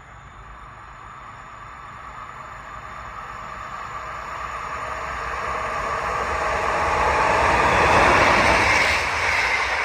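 A train approaching along the line, its rail and running noise growing steadily louder to a peak about eight seconds in as it draws near.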